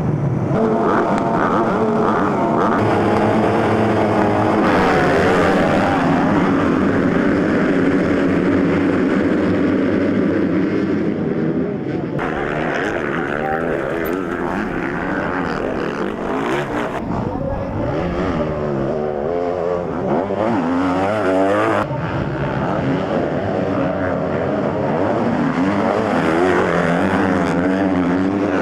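Several motocross bikes racing, their engines revving up and down in pitch as the riders work the throttle, with a few abrupt shifts in the sound.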